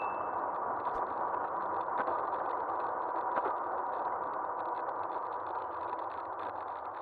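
Wind and road noise from an e-bike in motion, heard on a cheap action camera mounted on the front of the bike, with a faint steady whine and a few light clicks.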